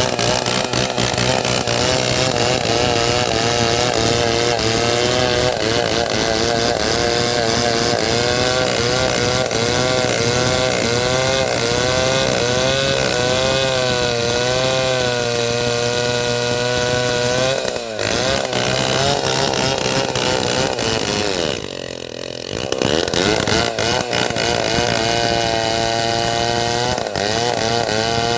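Two-stroke chainsaw running at high revs while cutting wood, its pitch wavering under load. It breaks off sharply about 18 seconds in, dips lower and quieter around 22 seconds, then climbs back up.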